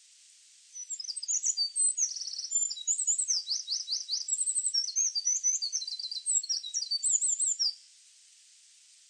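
A songbird singing a fast, varied run of high whistles, trills and chattering notes for about seven seconds, recorded as a masteran track for training caged songbirds. It starts a little under a second in and stops abruptly near the end, over a steady faint hiss.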